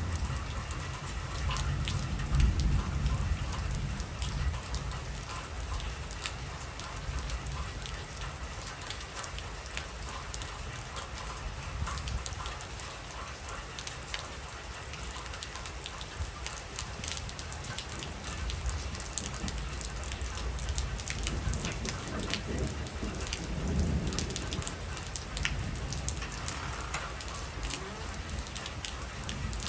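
Heavy rain falling steadily, with many separate drops pattering on surfaces over a low rumble that is stronger in the first few seconds.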